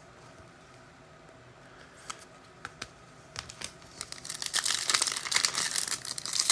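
A few small clicks and rustles, then from about four seconds in a dense, loud crinkling and tearing as a trading-card pack wrapper is ripped open.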